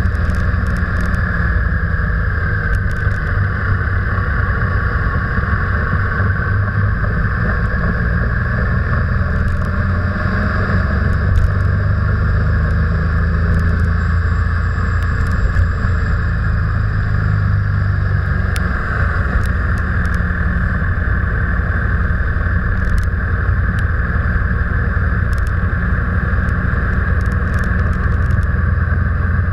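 Car driving steadily, with a constant low engine and road noise that stays even throughout.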